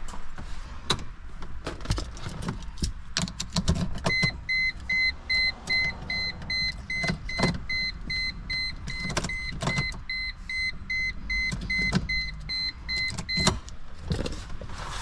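A car's warning chime beeping steadily, about two and a half beeps a second for roughly nine seconds, over a string of sharp clicks and knocks from work inside the car.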